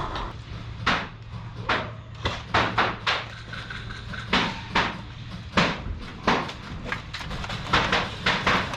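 A run of irregular sharp clacks and knocks, about fifteen in all, some coming in quick pairs, over a low steady hum.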